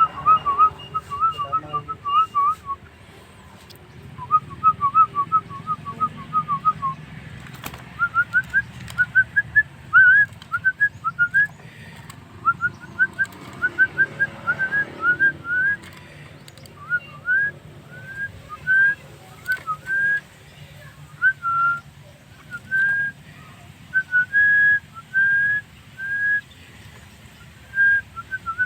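Javan myna (jalak kebo) singing a long run of clear whistled notes: quick, even strings of short notes at first, then rising upswept whistles, then longer held whistles with short gaps between them.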